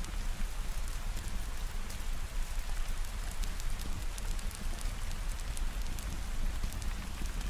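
Steady rain, with a continuous hiss, many fine drop ticks pattering through it, and a steady low rumble beneath.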